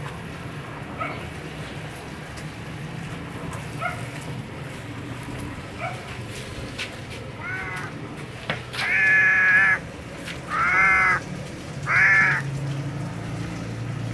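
A cat meowing again and again in short, drawn-out cries. The cries are faint at first and grow louder in the second half, over a steady low hum.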